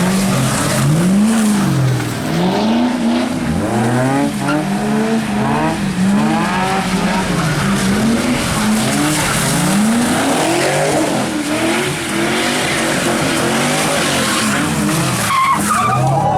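Car engine revving up and down over and over, about once a second, while the car spins donuts, with tyres skidding on the pavement.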